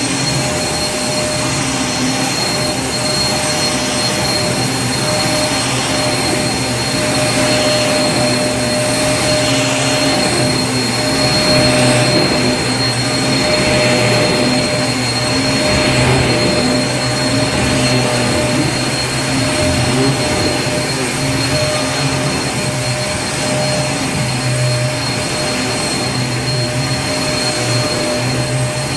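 Vacuum cleaner running steadily: a constant motor whine with a rushing air noise, its level swelling slightly now and then.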